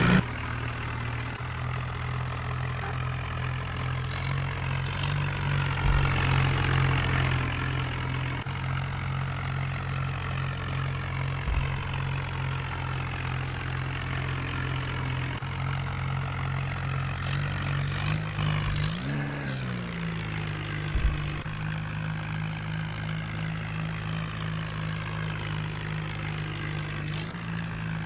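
Swaraj 855 tractor's three-cylinder diesel engine running steadily, with one brief rise and fall in revs about two-thirds of the way through.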